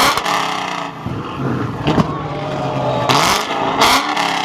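Car engine revved up and down repeatedly, with sharp exhaust pops and crackles between the revs.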